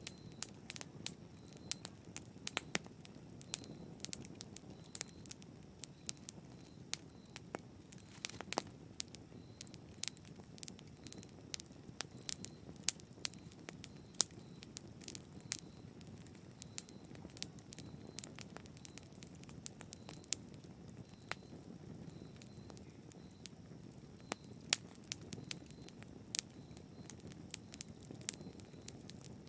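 Fire burning in a fireplace, crackling with frequent, irregular sharp snaps over a soft steady rush of flame.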